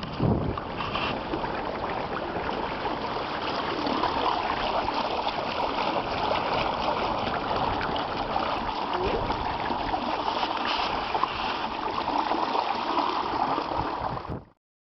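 Steady rush and splash of water, with wind noise on the microphone, cutting off abruptly near the end.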